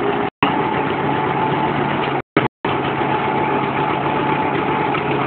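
John Deere Model D tractor's two-cylinder engine running steadily. The sound cuts out completely twice: once briefly near the start and once for about half a second a little past the middle.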